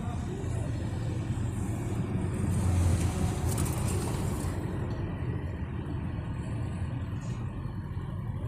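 Car engine running steadily at idle, a low even rumble, with a brief spell of hiss from about two and a half to four and a half seconds in.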